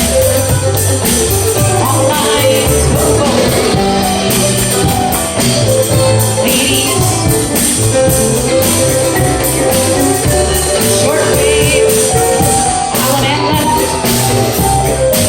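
Contra dance band playing a lively reel: fiddle melody over keyboard, mandolin and percussion, with a steady bass beat.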